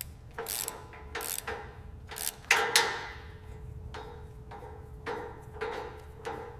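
About a dozen light clicks and knocks, irregularly spaced and some ringing briefly, over a faint steady hum.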